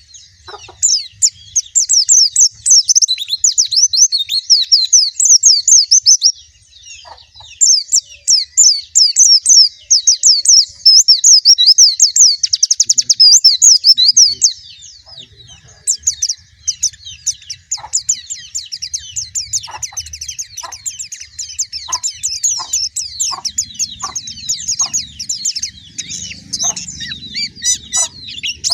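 White-eye (pleci) singing a fast, high twittering warble in long runs, with a couple of short breaks; the song turns sparser in the second half.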